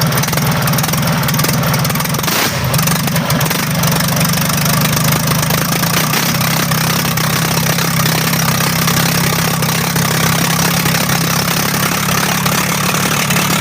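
Isuzu 6HE1 six-cylinder diesel engine running steadily with its exhaust manifold removed, the exhaust ports blowing out open and loud. The engine is being run to trace a misfire with white and black smoke.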